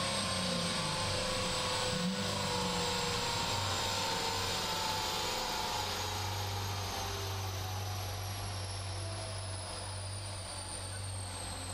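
Chevrolet Corvette V8 engine running steadily inside the cabin at high speed, about 220 to 240 km/h, under heavy wind and road noise. It is a steady drone that eases slightly toward the end.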